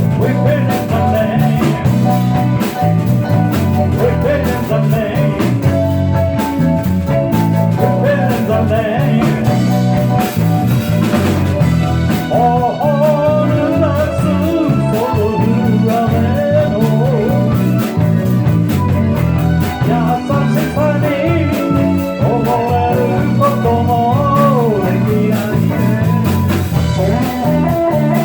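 A live band playing a bluesy song with guitar over low, steady bass notes. A melody line bends and slides from about twelve seconds in.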